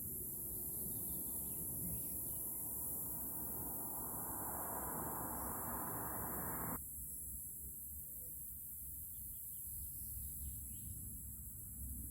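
Village outdoor ambience: steady rushing background noise with small birds chirping faintly now and then. The noise drops abruptly about seven seconds in.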